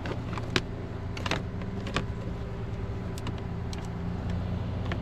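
Tow truck engine idling steadily, with a few sharp clicks and knocks, the loudest about half a second in and others near a second and a half and two seconds in.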